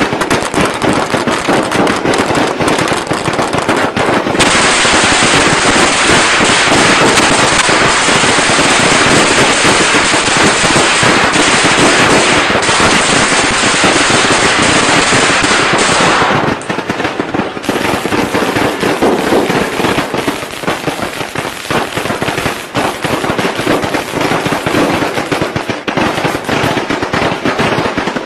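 Strings of firecrackers going off in a rapid, continuous crackle of sharp pops, typical of traditional Vietnamese Tết firecrackers. About four seconds in the sound switches to a denser, unbroken crackle. About sixteen seconds in it changes back to more separate, uneven bangs.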